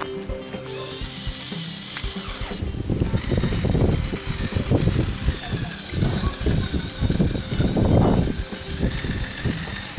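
Lego Technic trial truck's Power Functions motors whining steadily while its plastic gears and drivetrain clatter and click unevenly, the clatter getting heavier about three seconds in as the truck works under load.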